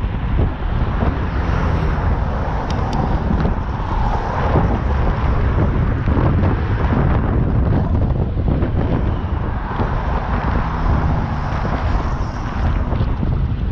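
Strong wind buffeting the microphone of a rider on a bicycle: a loud, steady rumble.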